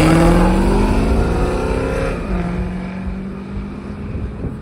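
A car's engine accelerating away, its pitch rising, then shifting up about two seconds in and pulling on at a lower pitch as it fades into the distance.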